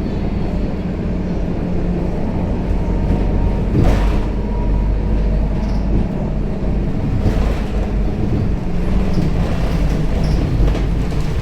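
Scania K270UB city bus on the move, heard from inside the cabin: a steady engine drone and road noise, with a few short rattling knocks, the loudest about four seconds in.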